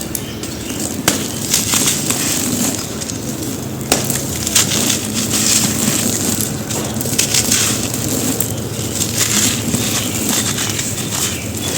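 Lumps of dry, gritty red dirt being crumbled and crushed, a continuous dense crunching and crackling with sharper cracks now and then, one about a second in and another near four seconds.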